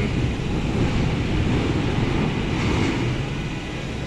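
London Underground Jubilee line train running past the platform, a steady low rumble that eases slightly near the end.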